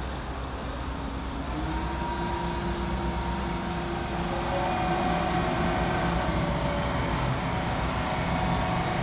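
Boat engines running as boats pass on the river: a steady low rumble with several held engine tones that grow a little louder about halfway through.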